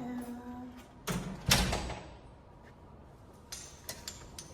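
A door being shut: a short rush and then a solid thud about one and a half seconds in, followed by a few light clicks.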